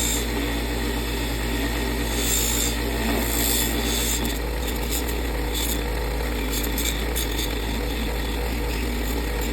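Power buffing wheel running steadily while a brass retainer plate is polished against it. A hiss from the rubbing swells and fades as the plate is pressed in.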